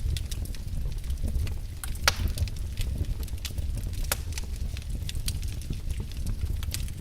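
Wood fire burning in a fireplace: a steady low rumble of the flames with irregular crackles and sharp pops, the loudest pop about two seconds in.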